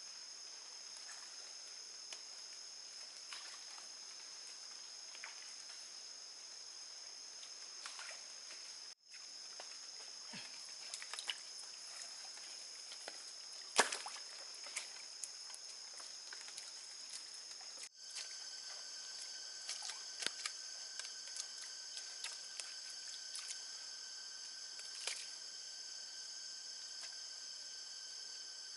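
Steady high-pitched drone of forest insects, with scattered light clicks and knocks and one sharper knock about halfway through. It breaks off briefly twice, and after the second break a lower second tone joins the drone.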